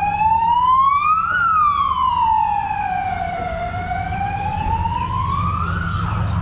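An emergency vehicle's siren wailing, its pitch sliding slowly up, down and up again, over a steady low rumble.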